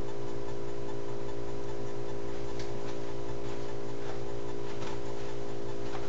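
Steady electrical hum with a stack of even tones and background hiss, with a few faint clicks in the middle.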